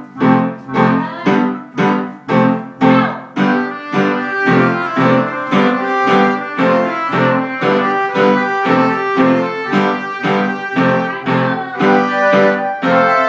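Piano playing a comical tune over steady repeated chords, about two a second, the notes growing busier about four seconds in.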